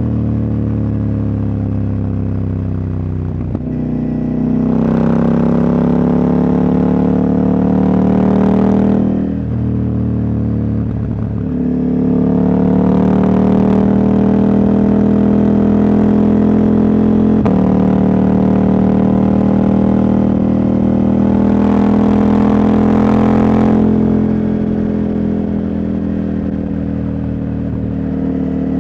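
Engine of a Husqvarna Norden 901, an 889 cc parallel twin with its catalytic converter removed, running under way. The revs climb about five seconds in and drop back near ten seconds. They climb again and hold, then ease off about two-thirds of the way through.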